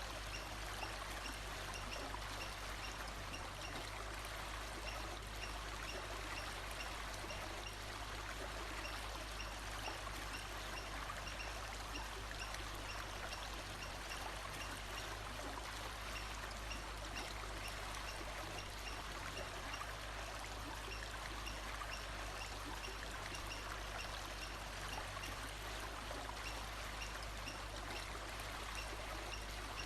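Water flowing steadily in a stream, with a faint high chirp repeating evenly throughout.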